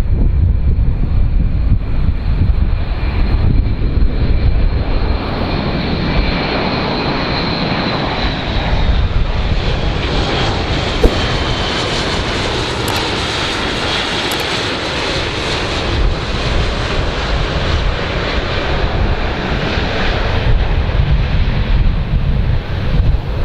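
A large airplane's engines passing by: a loud rush of engine noise that builds and then fades over several seconds, with a high whine that drops slightly in pitch as it goes. Wind buffets the microphone at the start and end, and there is one brief click about eleven seconds in.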